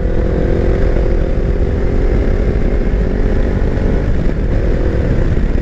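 Kawasaki Versys X300's parallel-twin engine running at steady revs under way, with heavy wind noise rushing over the microphone. The engine note fades shortly before the end.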